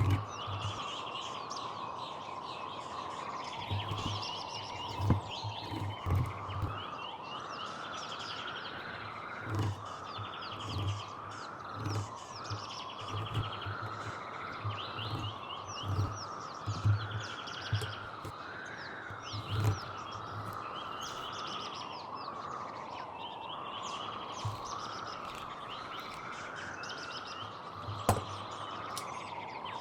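Small birds chirping and twittering over a steady wavering background hum, with short low thuds every second or two.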